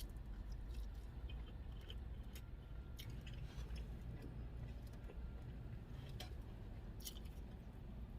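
Faint eating sounds: scattered soft mouth clicks and chewing, with a few sharp ticks, over a steady low rumble.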